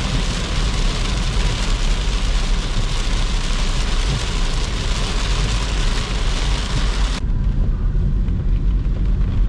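Heavy rain hitting the car's roof and windshield, heard from inside the cabin over a steady low road and engine rumble. About seven seconds in, the rain's hiss cuts off suddenly, leaving mostly the low rumble.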